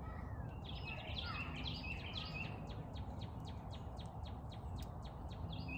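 A songbird singing a quick repeated phrase of chirps, twice, with a run of light ticks, about four a second, in between, over a steady low background rumble.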